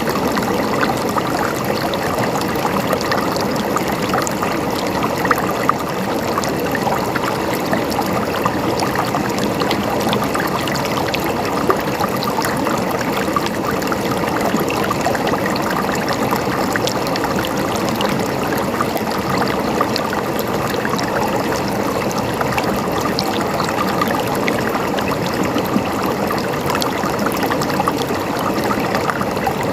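River water flowing and splashing over rocks, a steady rushing babble with small splashes throughout.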